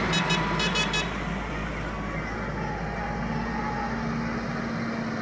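Tractor engines running as they drive past in a parade, with a rapidly pulsing horn sounding over the first second.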